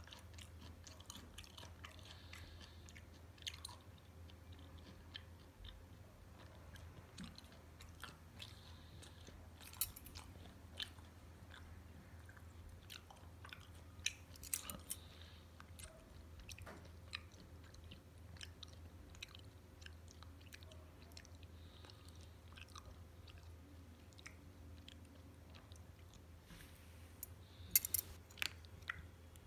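Quiet chewing with small wet mouth clicks, and a few sharper clicks near the end, over a low steady hum.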